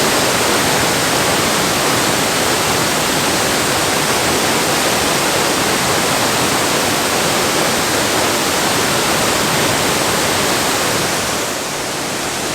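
Waterfall heard up close: a loud, steady rush of falling water with no break, easing slightly near the end.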